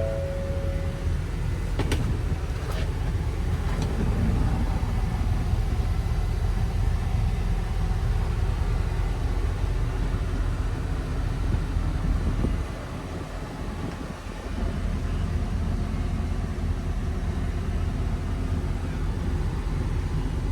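Box truck engine running with a steady low rumble. There are a few sharp clicks about two to four seconds in, and the sound drops for a couple of seconds just past the middle.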